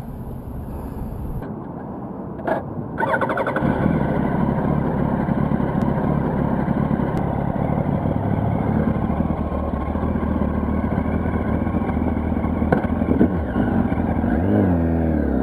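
Yamaha R1's inline-four engine running while the bike is ridden. It gets louder about three and a half seconds in, and the revs climb near the end.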